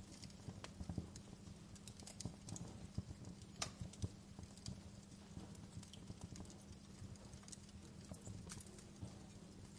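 Wood fire crackling in a fireplace: irregular small snaps and pops over a low steady rumble, with one sharper pop a little past three and a half seconds in.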